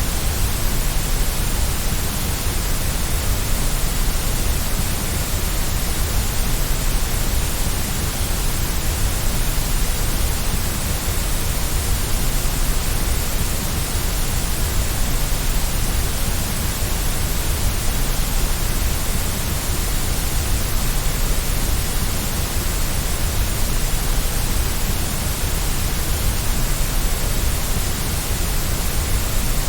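Steady white noise: an even hiss with a deep rumble underneath.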